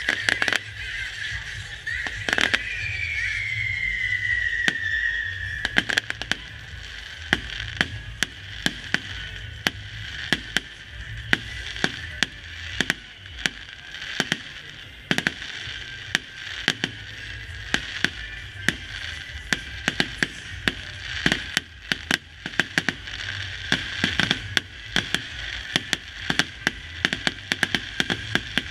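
Fireworks display: a rapid run of bangs and crackling from bursting shells, with a falling whistle about two seconds in that lasts a few seconds.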